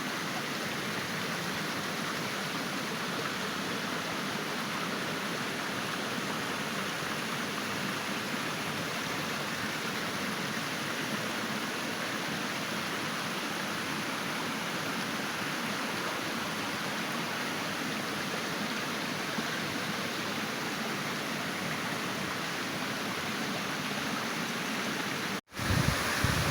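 Waterfall water rushing in a steady, even roar. About a second before the end the sound cuts out for an instant and comes back louder and deeper.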